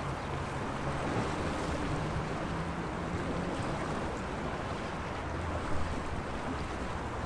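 Sea waves washing against the shore, with a steady low hum underneath.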